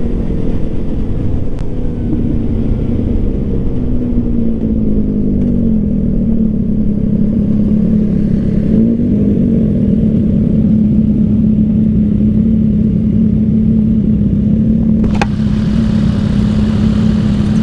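Yamaha MT-09 three-cylinder motorcycle engine running at a steady cruise, its pitch wavering a little in the first few seconds and then holding steady, over a heavy low rush of wind and road noise. A single sharp click about fifteen seconds in.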